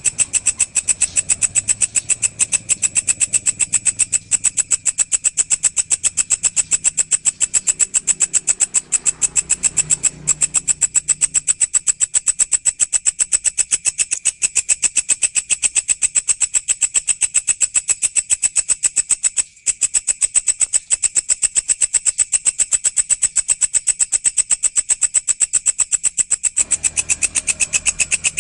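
Walang (Indonesian grasshopper) stridulating: a steady, very rapid train of high, buzzy chirp pulses, with one brief break about two-thirds of the way through.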